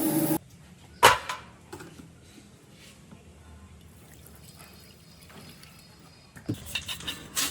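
A loud, steady machine noise cuts off abruptly just after the start. Then comes a single sharp knock about a second in, and a quick run of light clicks and knocks near the end, like parts or tools being handled on a workbench.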